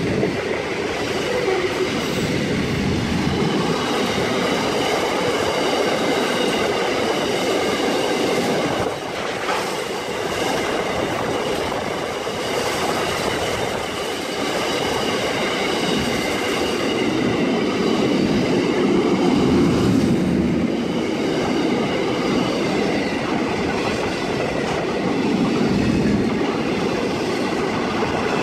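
Freight train wagons rolling past at a steady pace: a continuous rumble of steel wheels on rail, with a thin, high wheel squeal that fades about two thirds of the way through.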